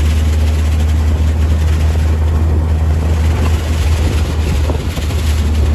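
Bradley GT II kit car's engine running steadily as the car drives down the road, heard from inside the cabin over wind and road noise. The low drone dips briefly a little past the middle.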